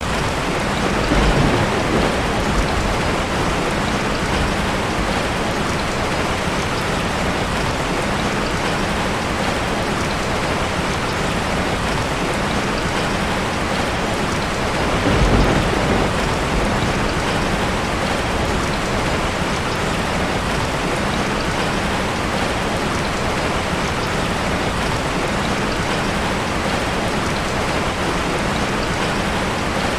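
Steady heavy rain falling, with low rumbles of thunder about a second in and again about halfway through.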